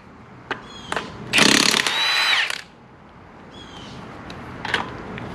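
Impact wrench with a 19 mm socket running in one burst of just over a second, about one and a half seconds in, spinning off a wheel's lug nut. A few sharp clicks come before and after it.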